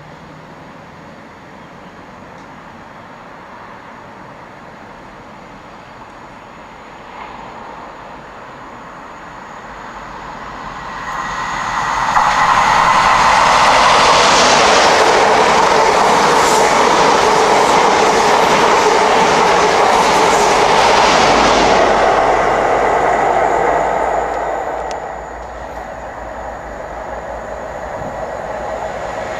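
A diesel train approaching and passing at speed. It builds from about ten seconds in, is loudest for about ten seconds, then fades, and the sound starts building again near the end.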